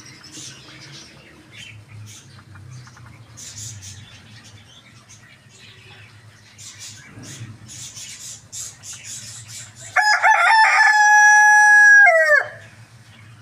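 Rooster crowing once about ten seconds in: a loud call of about two and a half seconds, held on one pitch and dropping away at the end. Before it, faint scattered chirps over a low steady hum.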